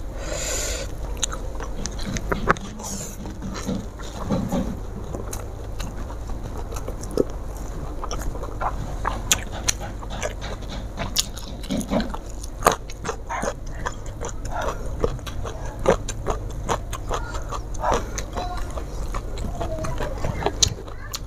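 Close-miked mouth sounds of a person eating rice and fried fish by hand: steady chewing with many short wet lip smacks and mouth clicks.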